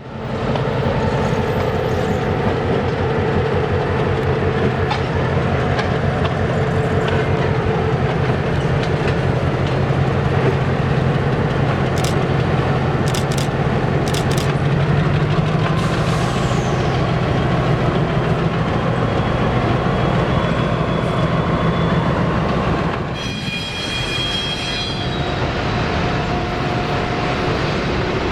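Diesel freight train running past with a steady low engine drone and the rumble and clatter of wheels on the rails. About 23 seconds in the sound dips briefly and a cluster of high steady tones rings for a couple of seconds.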